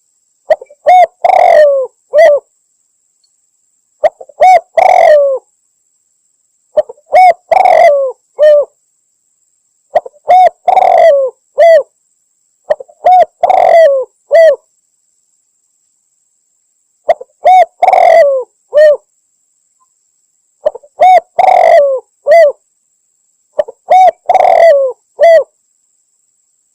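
Spotted dove cooing: a phrase of three or four coos, repeated about every three seconds with dead silence between, as a looped hunting lure recording of a female calling males.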